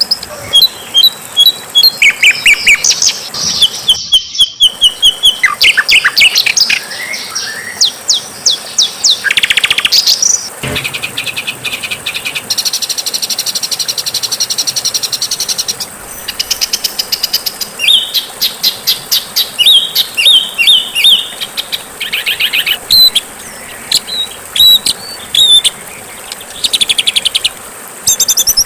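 Loud, varied songbird song from a bird-song training recording: rapid trills, buzzy rattles and quick runs of high repeated chirps follow one another with short breaks. The sound drops out briefly about four seconds in, where the recording is spliced.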